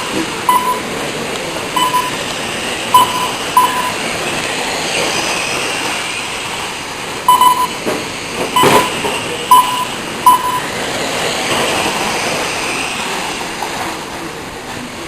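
Racing trucks' motors whining and hissing steadily, with short electronic beeps at irregular intervals from the lap-timing system as trucks cross the line, and one sharp knock about nine seconds in.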